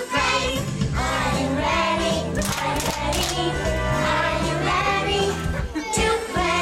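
A group of children singing a song over instrumental accompaniment, with a few sharp hits about two and a half to three and a half seconds in.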